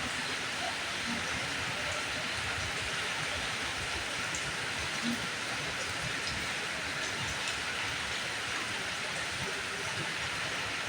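Steady rain falling: an even hiss with a few faint drop ticks here and there.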